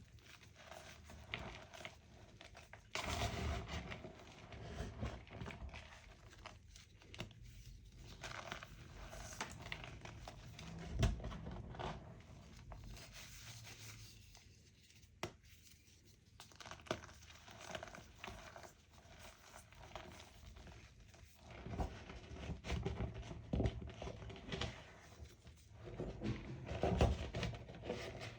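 Homemade chalk being crushed, crunching and crumbling in an irregular run of crisp crackles and soft crumbles, with one sharp snap about eleven seconds in.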